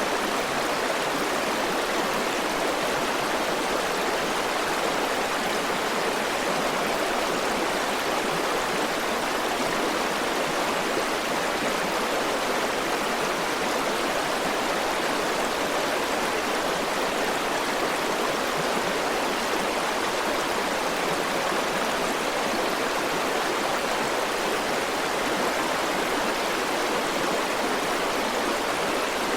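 River water flowing and rushing over rocks, a steady, even stream noise.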